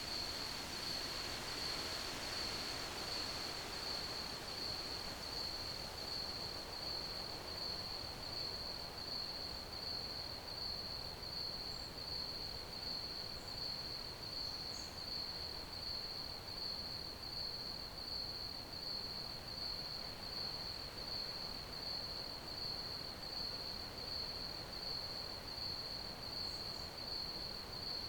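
Crickets chirping in a steady, even high-pitched pulse, about two chirps a second, over a faint background hiss.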